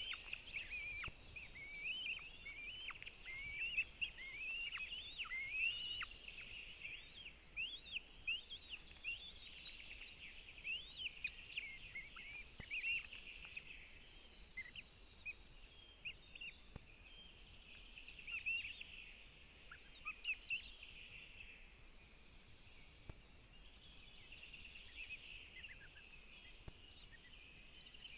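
Northern goshawk chicks giving rapid, high, squealing begging calls at feeding. The calls come thick and fast at first and grow sparser about halfway through.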